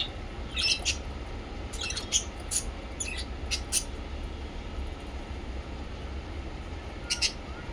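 Small pet parrots chirping in short, sharp bursts: a quick run of chirps over the first few seconds, then a pair near the end, over a steady low hum.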